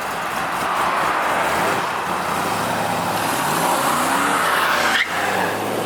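Chevrolet V8 performance car accelerating hard under a broad hiss of tyre noise, its engine note climbing in pitch, with a sharp break about five seconds in.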